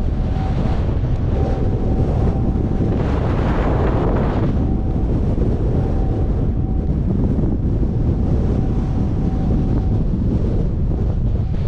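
Wind buffeting the microphone of a camera riding along on a moving bicycle, a steady low rumble. A faint thin tone keeps coming and going through it.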